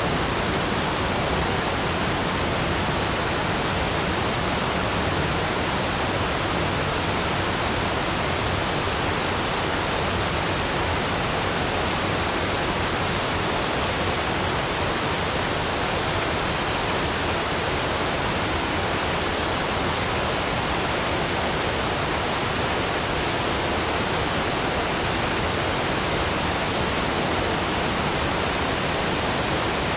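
Steady rushing of waterfalls, an even hiss spread from deep to high pitches with no changes.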